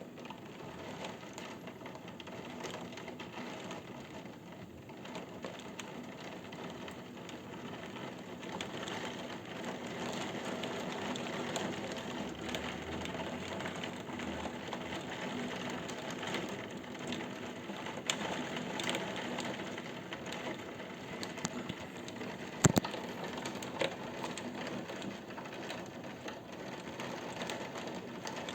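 Rain falling steadily during a thunderstorm, a dense hiss that grows a little louder after several seconds, with scattered sharp ticks of drops hitting something close by; one loud tick about two-thirds of the way through.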